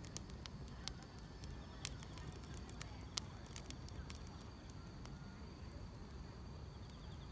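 Wood fire crackling: irregular sharp pops and snaps, a few louder ones, over a low steady rumble, with faint insects chirping.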